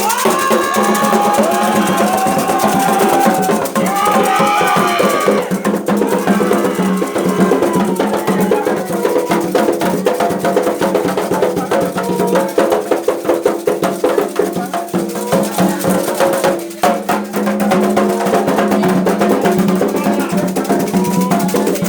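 Candomblé ritual music: hand drums and a sharp struck percussion part keep a fast, steady beat, with voices chanting over it in the first few seconds.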